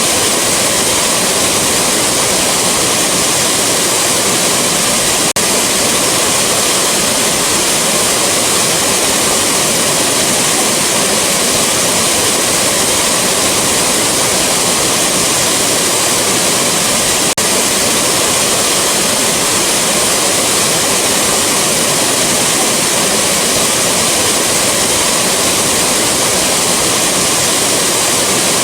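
Rushing waterfall: a loud, steady wash of falling water with no letup, broken only twice by a momentary dip in level.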